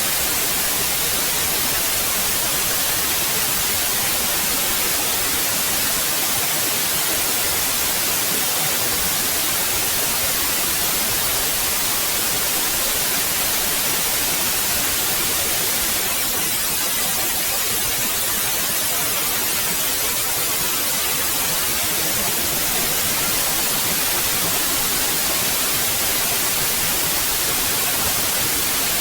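Steady synthetic white noise: an even, unchanging hiss, strongest in the high end.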